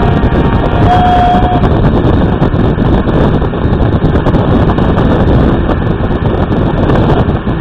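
Air from an electric fan blowing straight into the microphone: a loud, steady rumbling buffeting, with a brief held note about a second in.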